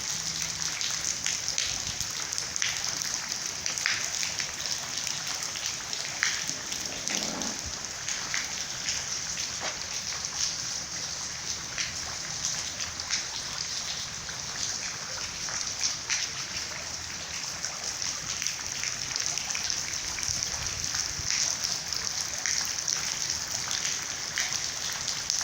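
Steady rain falling, a continuous hiss with many single drops clicking through it.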